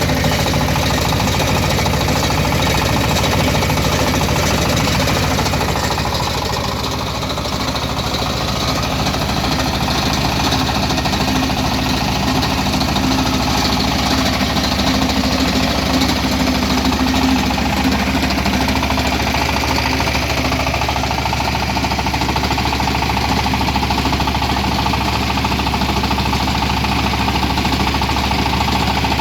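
Diesel-powered rice milling machine running steadily, its 15-horsepower diesel engine beating with a loud, rapid, even knock.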